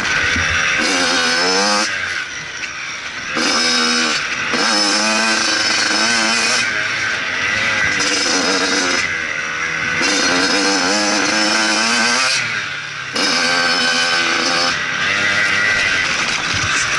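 Motocross bike engine revving hard through the gears, its pitch repeatedly climbing and dropping, with the throttle chopped briefly about two seconds in and again about twelve seconds in.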